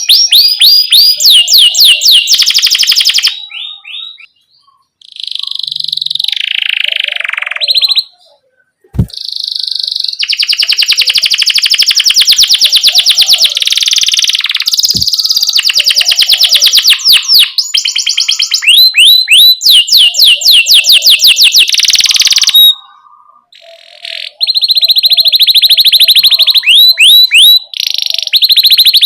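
Domestic canary singing loudly: fast rolling trills of rapidly repeated notes mixed with sharp 'cuit cuit' chirps, in long runs broken by brief pauses a few times.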